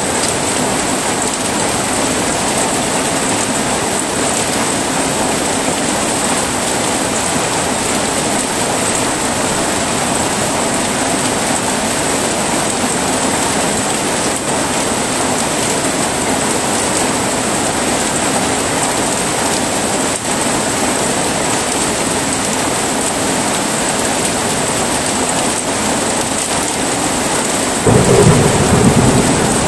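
Steady heavy rain falling, with a low rumble of thunder swelling up near the end.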